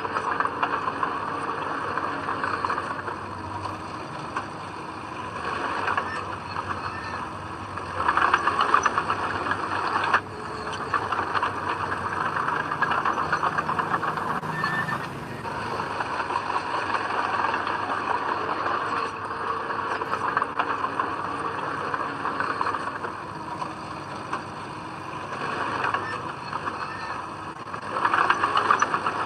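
Diesel engine of heavy earthmoving machinery, a bulldozer or dump truck at work, running steadily and swelling louder under load about eight seconds in and again near the end.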